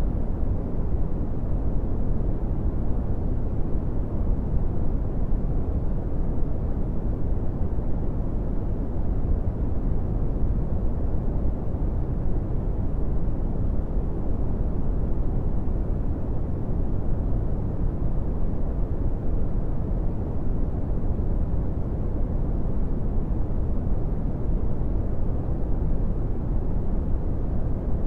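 Brown noise: a steady, deep hiss weighted heavily to the bass, with little treble and no change in level or character.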